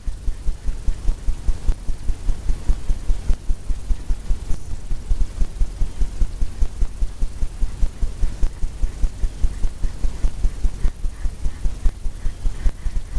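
A brush tapping against a stretched canvas, making rhythmic low thumps about three to four times a second.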